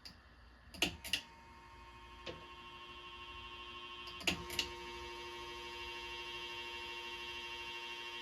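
Casablanca Delta II ceiling fan motor running with no blades fitted, giving a steady electric whine that grows louder over a few seconds. The pull-chain switch clicks twice about a second in and twice again about four seconds in, changing speed, and the whine takes on an added lower tone after the second pull.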